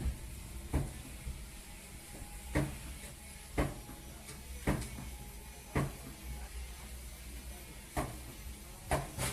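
Blocks of ice knocking as they are loaded aboard a boat: a run of sharp thuds at uneven intervals, roughly one a second, over a steady low hum.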